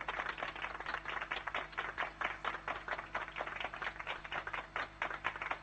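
A quick, steady patter of light taps, about seven or eight a second.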